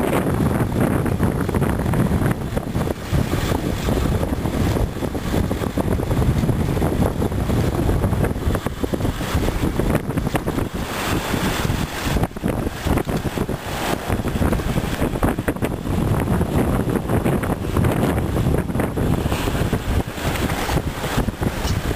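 Strong wind buffeting the microphone: a loud, gusty rumble that flutters constantly.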